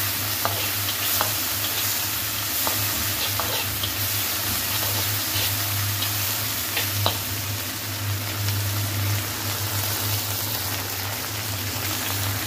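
Green peppers and onion sizzling hard in a hot, steaming wok with soy and chilli sauce, the spatula scraping and tapping against the pan now and then as they are stirred. A steady low hum runs underneath.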